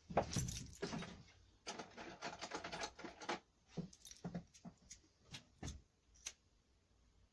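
Rustling and clattering of small objects being handled and rummaged through, followed by a few separate sharp clicks.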